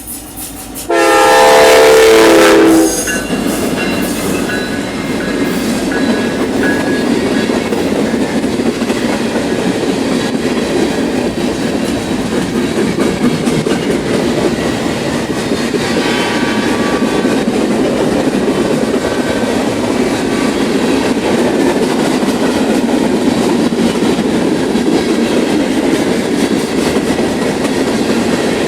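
A freight train's locomotive air horn sounds one loud blast, a chord of several notes lasting about two seconds. The train then rolls past with steady wheel rumble and clickety-clack on the rails.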